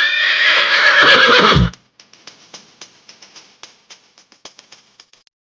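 A horse whinnying once, loudly, for under two seconds, falling in pitch and ending in a low rumble. Faint scattered clicks follow.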